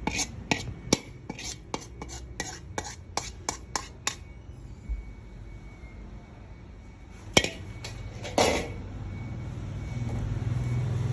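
Rapid light clicks of utensils against plates or bowls, about four a second for the first few seconds, then two louder knocks later on. A low rumble rises near the end.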